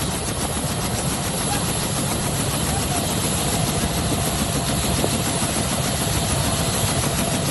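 Rescue helicopter's rotor and engine running steadily at close range, with a fast, even rotor chop under a dense rushing noise.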